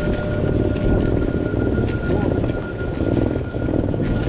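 Steady rumble of a train standing at the platform, with a thin, even high whine.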